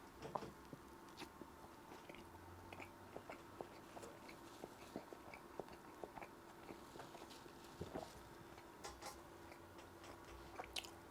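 A person chewing a mouthful of burger: faint, irregular soft clicks and smacks of the mouth, over a faint steady hum.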